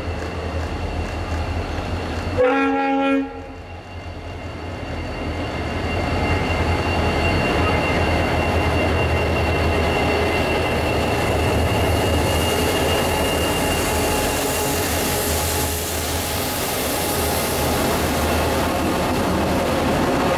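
Diesel locomotive horn gives one short blast about two and a half seconds in. Then the engines of the lead C-class diesel locomotives and GL-class locomotive GL111 grow louder and run steadily past at close range, with loaded container wagons rolling behind them.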